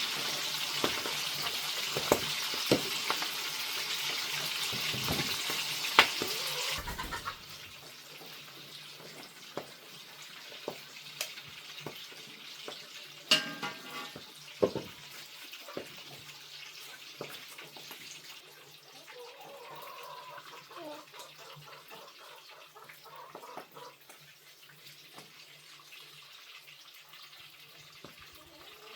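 Food sizzling in a hot pan with the clicks of a utensil stirring, cutting off abruptly after about seven seconds. Quieter scattered knocks and clinks follow.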